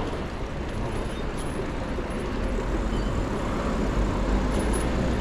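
City road traffic heard from a bicycle, a steady rumble of passing cars that grows a little louder near the end.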